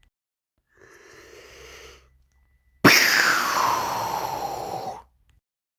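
Sound effects for a fight: a faint rushing noise, then about three seconds in a sudden loud blast with a tone falling steadily in pitch, dying away after about two seconds.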